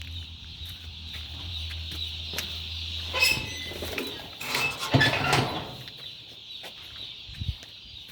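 A flock of broiler chickens keeps up a steady high-pitched chorus of cheeping, with louder bursts of wing flapping and scuffling about three seconds in and again around five seconds in. A low hum underneath stops about four seconds in.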